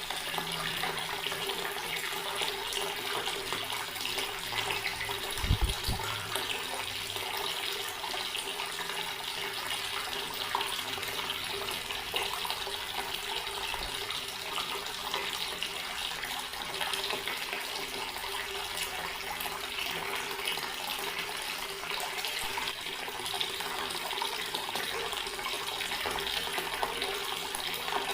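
Water running steadily from a tap, a constant splashing stream with a faint steady hum under it. A brief low thump about five and a half seconds in.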